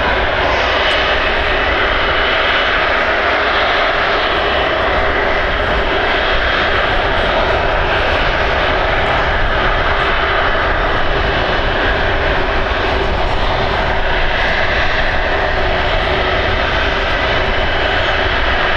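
Jet airliner engines running steadily and loudly: a broad rush with a few steady whining tones that neither rises nor fades.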